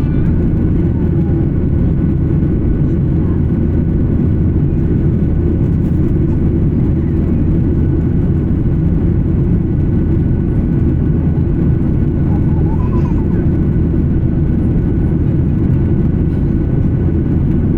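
Steady cabin drone of an Embraer 175 regional jet in flight, with its twin GE CF34 turbofans and airflow making an even low rumble and a couple of faint steady high tones above it.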